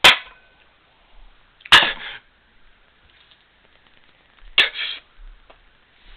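Three quick strikes of a light, one at the start, one a little under two seconds in, one about four and a half seconds in, each a short sharp scrape and hiss: repeated tries to get a flame going to light candles.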